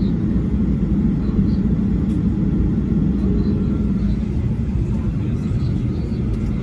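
Steady low rumble of cabin noise inside a Boeing 737-800 airliner on the ground after landing.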